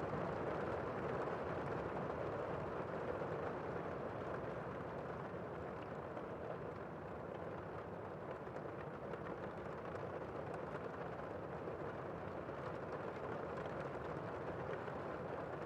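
Steady rain: an even, unbroken hiss with a soft rumble underneath and faint scattered drop ticks.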